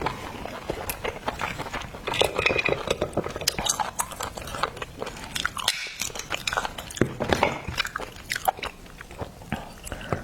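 Close-miked mouth sounds of someone eating cooked oysters: wet chewing and lip smacks in quick, irregular clicks.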